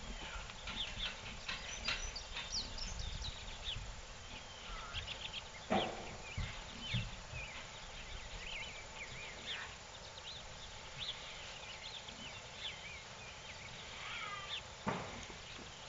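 Small birds chirping and singing in quick short notes throughout, over a low steady outdoor hiss, with a sharp knock about six seconds in and another near the end.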